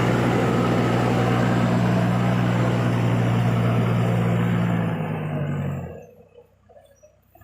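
Diesel engine of a Case heavy-equipment tractor running steadily and loudly close up, then fading away and cutting out about five to six seconds in.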